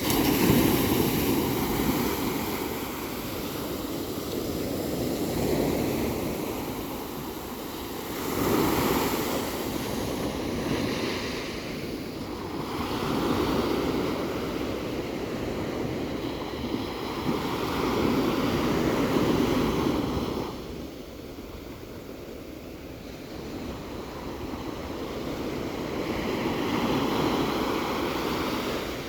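Ocean surf: waves breaking and washing in, swelling and fading every few seconds, with a quieter lull a little past the middle before the next wave builds.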